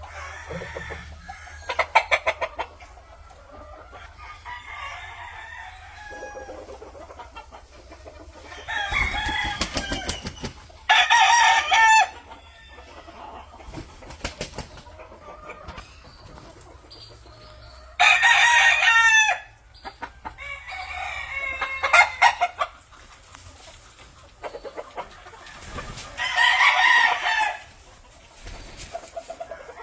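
Roosters crowing again and again, with several loud crows of a second or so each, and softer clucking and calls between them.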